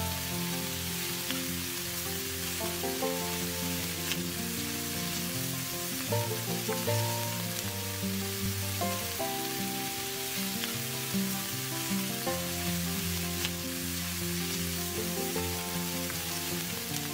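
Whole stuffed brinjals in tomato masala sizzling and frying in a kadai over a wood fire, with a steady frying hiss and now and then a spoon stirring. Instrumental music with held notes plays over it.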